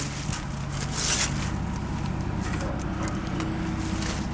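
A combustion engine idling steadily, with a brief hiss about a second in.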